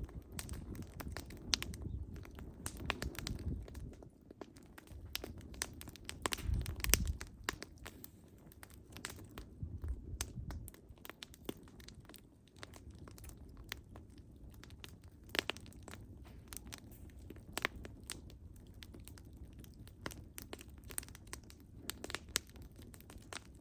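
Wood fire crackling, with irregular sharp pops and snaps over a low rumble that eases after about ten seconds.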